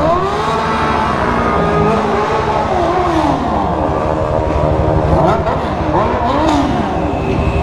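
Several motorcycle engines revving up and down at once, their pitches rising and falling and overlapping.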